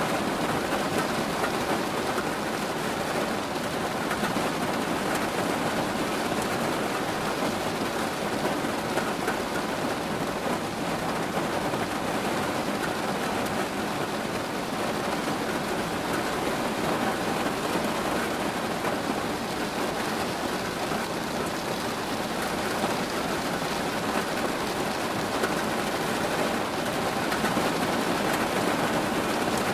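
Steady rain falling and pattering on a surface, an even hiss with no thunder or change.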